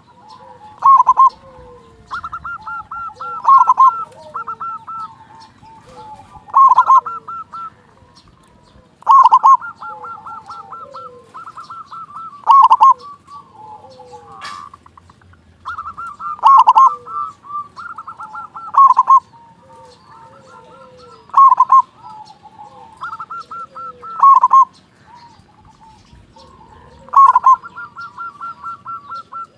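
Zebra dove (local perkutut) cooing its song over and over, one phrase every two to three seconds. Each phrase is a quick run of short notes ending in a loud coo.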